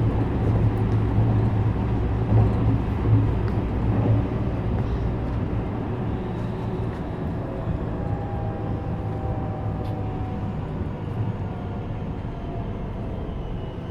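Cabin running noise of a JR West 321 series electric train: steady rumble of wheels and traction motors. In the second half a faint motor whine falls slowly in pitch and the noise eases as the train slows for a station stop.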